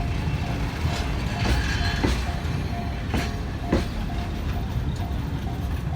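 Sagano trolley train rolling over a road level crossing with a steady rumble, its wheels clacking over rail joints several times. The crossing's warning bell rings in a steady repeating ding throughout.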